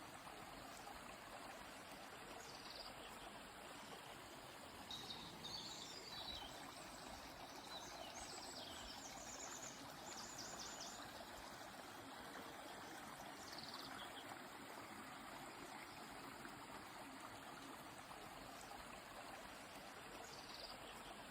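Gentle river flowing steadily, with birds singing high above it: several calls and a quick trill from about five to eleven seconds in, then a few single calls later.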